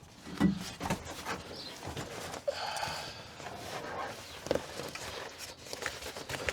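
A sheet of sound-deadening insulation being handled and marked out for cutting: irregular knocks and rustles.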